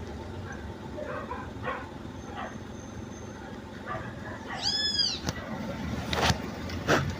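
Fiat Argo steering box squeaking as the wheel is turned: one short, high squeal that rises and falls in pitch about five seconds in, followed by two sharp knocks near the end. The owner notes the noise is worse at full lock and seems to be a chronic fault of this car.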